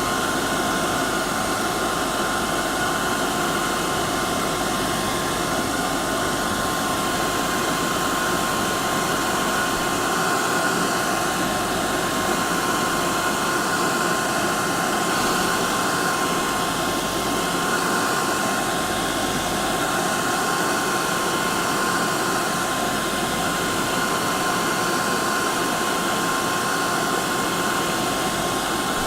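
Electric hair dryer running steadily: a constant rush of air with a fixed motor whine.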